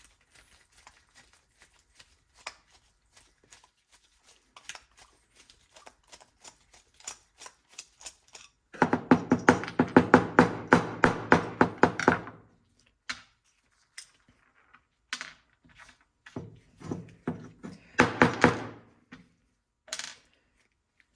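Screwdriver and small metal carburetor parts clicking and tapping as the main jet is unscrewed from a snowblower carburetor, with two stretches of rapid, even clicking, the louder about halfway through and a second one near the end.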